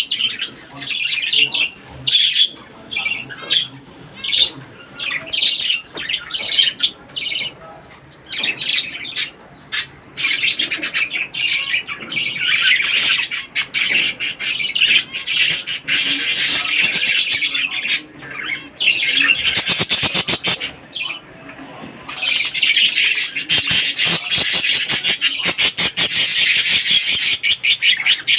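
Pet budgerigars chirping and chattering. At first there are short separate chirps about once a second, then long stretches of rapid, busy warbling chatter.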